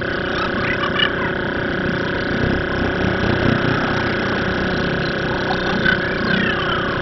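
Vehicle engine running at idle with a steady hum; a deeper rumble swells for a moment a few seconds in.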